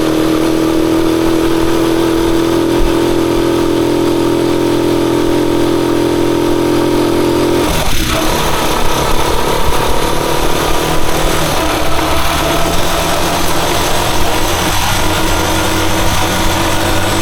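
Rusi Chariot 175 motorcycle engine running steadily under way. The engine note changes abruptly about eight seconds in.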